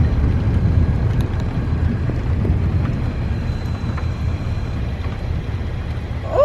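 Low, rolling thunder rumble from a nearby lightning strike, slowly fading.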